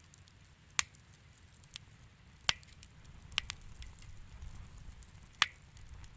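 Fire in a fireplace crackling: a handful of loud sharp snaps among fainter crackles over a low, steady rumble of the flames.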